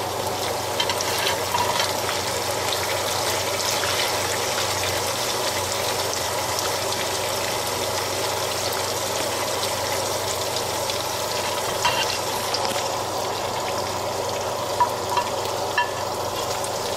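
Chicken meatballs sizzling steadily in a nonstick frying pan as tomato, onion and pepper pieces are stirred in with a wooden spoon. A few light knocks come near the end.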